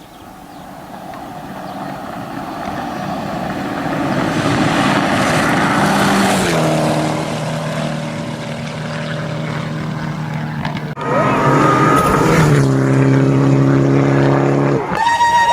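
Rally car engine approaching at speed, growing louder over about four seconds, then holding a steady note that drops in pitch as it goes by. About eleven seconds in the note breaks off briefly and comes back, settling at a lower steady pitch.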